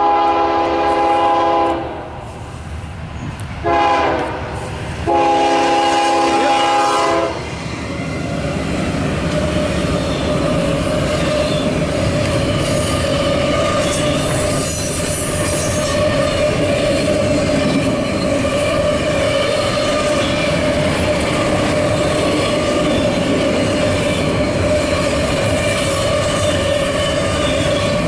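Freight locomotive horn sounding a chord in three blasts: long, short, long, the close of a grade-crossing warning. Then double-stack intermodal well cars roll past with a steady rumble, wheel clatter and a sustained squeal.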